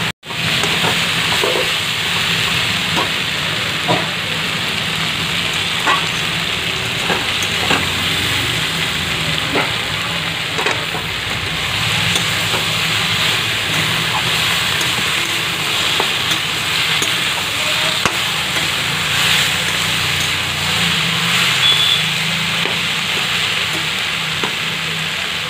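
Mixed vegetables frying in a metal kadai, a steady sizzle throughout, with a metal spatula scraping and knocking against the pan now and then as they are stirred.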